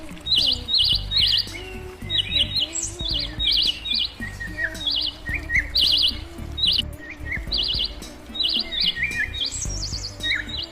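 A songbird chirping over and over: short high notes in quick groups of two or three, repeated throughout, with a few lower slurred calls in between.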